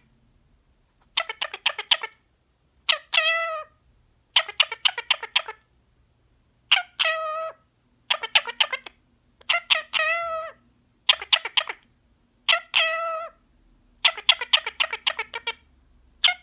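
Indian ringneck parrot talking, repeating short mimicked phrases one after another with brief pauses between them, in a high, buzzy voice.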